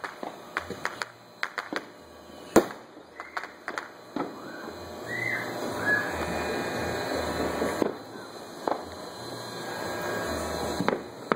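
Consumer fireworks going off: a quick run of sharp bangs and pops, the loudest about two and a half seconds in, then a dense continuous crackling from about four seconds on, with a couple of short whistles early in the crackle and another bang near the end.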